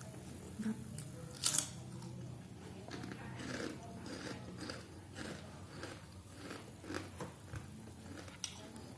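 Close-up eating sounds: a loud crunchy bite about a second and a half in, then a run of crisp crunching as kerupuk rambak (crispy cowhide crackers) are chewed.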